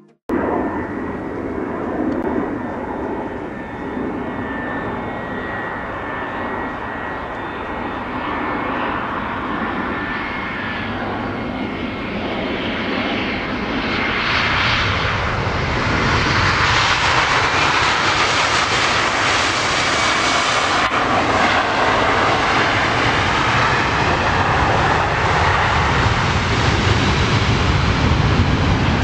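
Airbus A320 jet airliner on landing, its engines making a high whine over a rumble. The sound grows louder and fuller about halfway through and stays loud until it cuts off.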